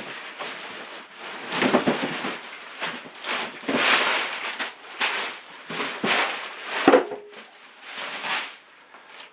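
Styrofoam and cardboard packaging being handled and pulled from the box, in a run of irregular scrapes, crunches and rustles, with a sharp knock about seven seconds in.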